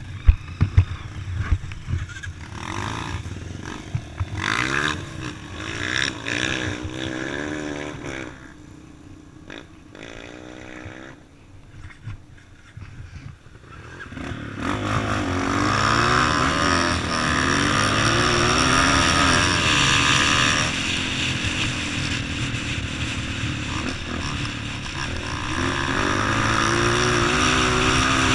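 Motorcycle engine running, its revs rising and falling, growing louder from about halfway through. A few sharp knocks near the start.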